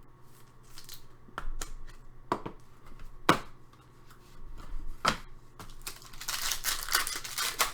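Trading cards and pack wrappers being handled: a few sharp clicks and snaps of cards, then dense crinkling and tearing of a wrapper from about six seconds in.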